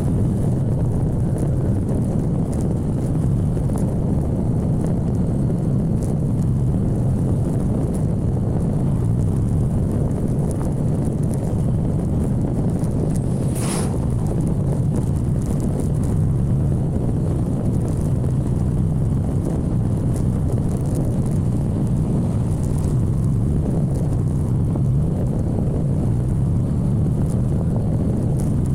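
Steady rumble of a motorcycle in motion, its engine drone mixed with wind noise, with a brief high hiss about halfway through.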